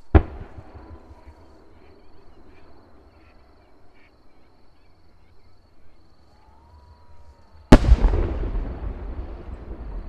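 Aerial fireworks shells bursting: a sharp bang right at the start, then a louder boom about three quarters of the way in that rumbles on as it dies away.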